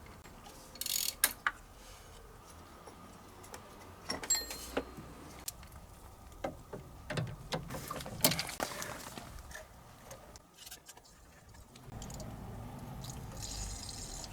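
Hand tools working on the car's metal parts: scattered clicks, knocks and metallic clinks, a few of them ringing briefly, with a steadier noisy stretch near the end.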